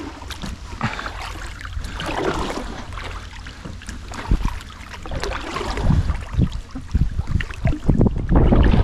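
Kayak paddles dipping and splashing in the water, stroke after stroke. Wind buffets the microphone with low rumbling gusts, heaviest near the end.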